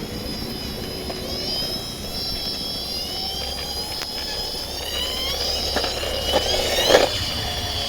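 Toy police helicopter being run, giving a high mechanical whine in several wavering tones that climb near the end.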